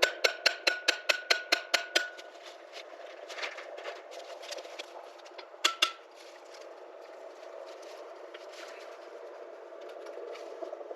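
A hammer striking metal in quick blows, about five a second for two seconds, each ringing at the same pitch. Scattered lighter knocks follow, and a sharp double strike comes about six seconds in.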